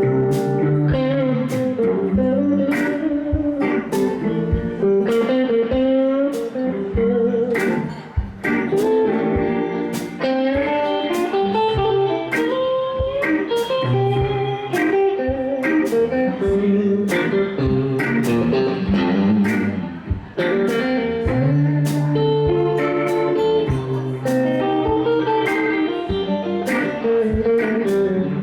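Live electric blues band playing an instrumental break: electric guitar lines over bass and drums with a steady beat.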